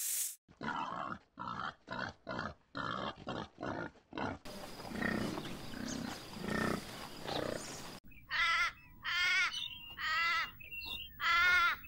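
Several different animal calls in turn, as the clips change: a quick series of short calls, then a few seconds of low, rough calling, then several long, wavering calls.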